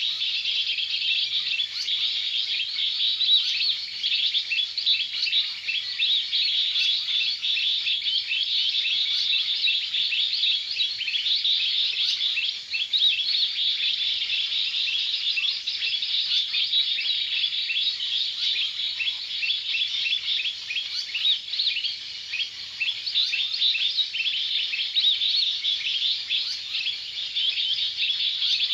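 Many small birds chirping and twittering at once in a dense, continuous chorus of rapid high chirps.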